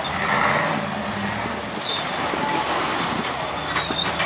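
Engine of a lifted 4x4 on 54-inch bogger mud tires running steadily, with a few faint high squeaks over it.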